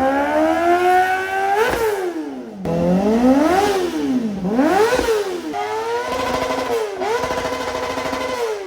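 Kawasaki ZX-4RR's inline-four engine revved hard several times through an aftermarket exhaust. Its pitch climbs steeply, drops, rises and falls quickly, then is held high twice near the end.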